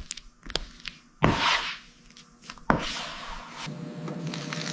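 Rubbing and scraping on body filler on a car body panel while it is shaped: a few light clicks, a short scratchy stroke, then steadier rasping from about halfway through.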